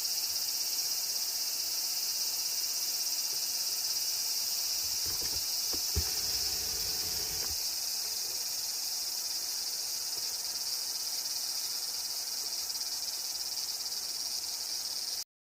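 A steady, high-pitched chorus of insects buzzing without a break. A brief low rumble with a single knock comes about six seconds in, and everything cuts off suddenly near the end.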